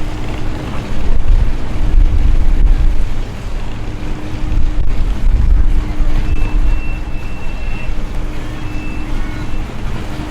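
Engines of performance cars running loud and deep at low speed as they drive slowly past, the exhaust note swelling and easing.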